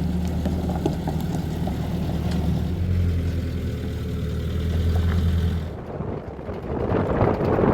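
An engine running steadily at a low pitch; near the end a rougher, louder noise takes over.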